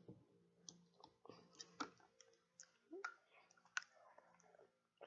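Faint, scattered wet clicks of chewing and mouth sounds close to the microphone.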